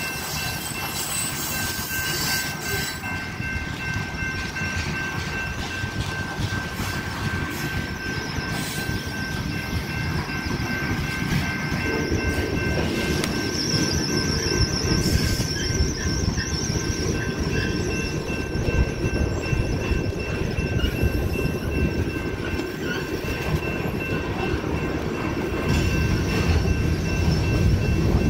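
Freight train cars rolling past: a steady rumble and clatter of steel wheels on rail that grows heavier about halfway through. A wavering high wheel squeal lasts a couple of seconds in the middle.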